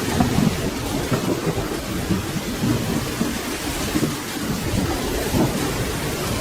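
Steady rain with a low, uneven rumble of thunder underneath.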